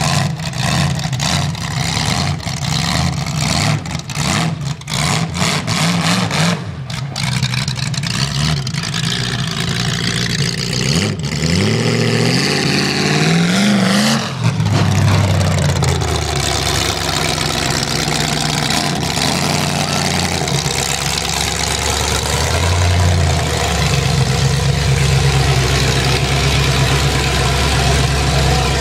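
Demolition derby car's 450 hp small-block Chevy 350 V8 running loudly as the car is driven, choppy for the first several seconds, then revving with a steep climb in pitch about halfway through before holding a steady drone.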